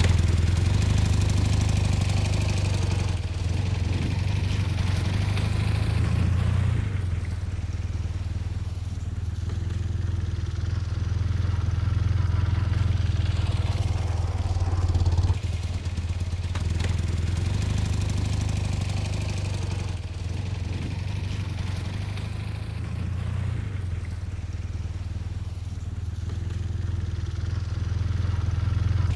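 Motorcycle engine running steadily while riding, with wind and road noise. The engine note eases back about a quarter of the way in and dips briefly about halfway through.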